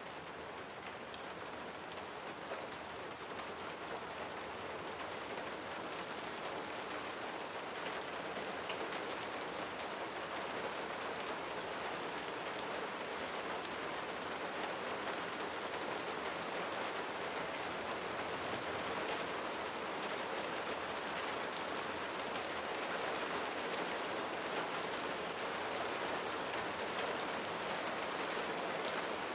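Steady rain falling, a dense patter of drops with fine individual ticks. It swells slightly over the first several seconds, then holds steady.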